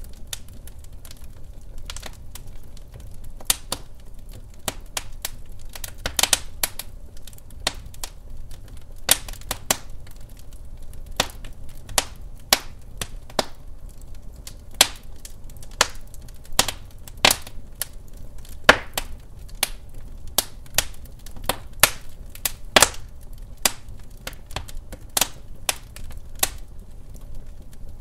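Wood fire burning in a fireplace: a steady low rumble of flames with frequent irregular crackles and sharp pops of burning logs.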